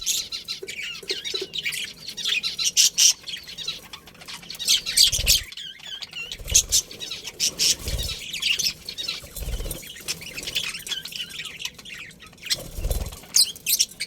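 Budgerigars chirping and warbling in quick, overlapping calls, with a few short low thumps.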